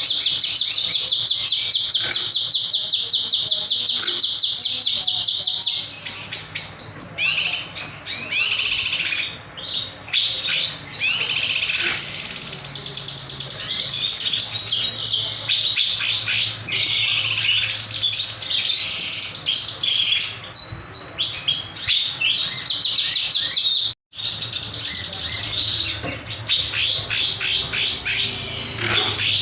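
A kinoy songbird singing in full voice. It opens with a rapid, dense trill held for about six seconds, then breaks into varied sharp chirps and quick sweeping notes.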